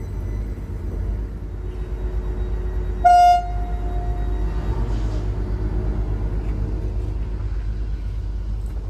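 Elron Stadler FLIRT diesel multiple unit pulling out of the station: a steady low rumble of its engines and running gear, with one short, loud horn toot about three seconds in.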